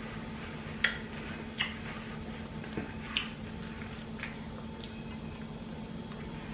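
Someone chewing a mouthful of taco, with about five short wet smacks and crunches over the first four seconds above a steady low hum.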